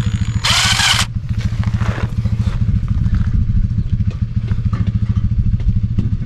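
Another engine running steadily nearby with a fast, even chugging pulse, not the tractor, which has not yet been started. About half a second in, a brief loud hissing squeal rises over it.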